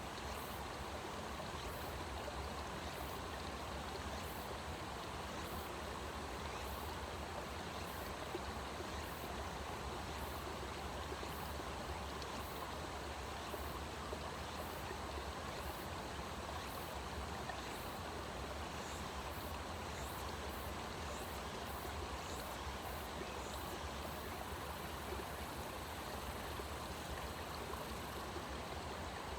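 Steady rushing outdoor ambience, close to running water. A faint high-pitched chirp repeats about every two-thirds of a second over it and stops about three-quarters of the way through.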